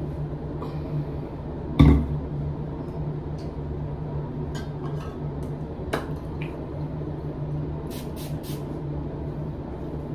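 Household handling sounds, like dishes and utensils being moved: a loud knock about two seconds in and scattered light clinks over a steady low hum, with three short hissing sounds near the end.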